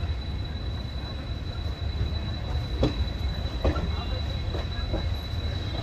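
Indian Railways express train coaches running along the track: a steady low rumble, with sharp wheel clacks over rail joints, the first about three seconds in and a few more over the next two seconds.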